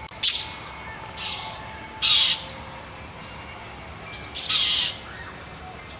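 Blue jays giving harsh, rasping alarm calls, four in the space of a few seconds, with the third and fourth drawn out longest: mobbing calls aimed at a cat.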